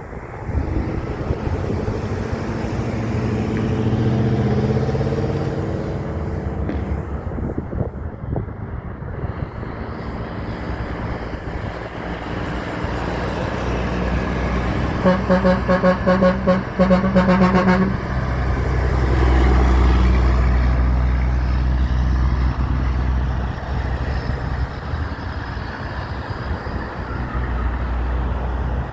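Heavy trucks passing on the road with their engines running. About halfway through, a truck air horn is sounded in a quick series of stuttering blasts lasting about three seconds. A deep rumble follows as a truck goes by.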